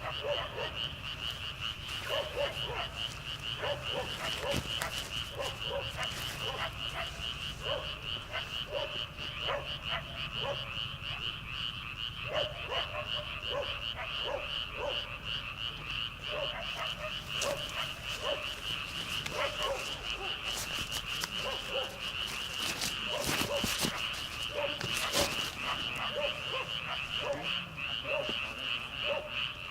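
Chorus of frogs calling from flooded rice paddies: a dense, steady high trilling over which lower croaks repeat irregularly.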